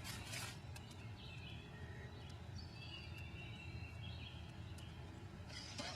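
Footsteps crunching through forest undergrowth, with short crackles near the start and again near the end. A bird calls faintly in the middle, over a low steady rumble.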